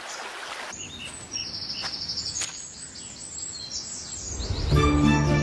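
Small birds chirping over a quiet outdoor background, including a rapid high trill lasting about a second and a half. Plucked-string music comes in near the end.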